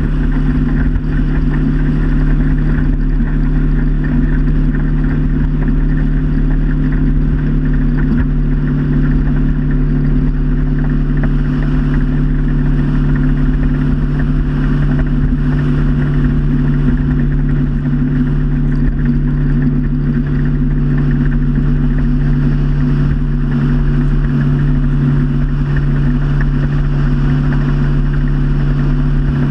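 Motorboat engine running steadily at cruising speed, a loud, even drone with no change in pitch.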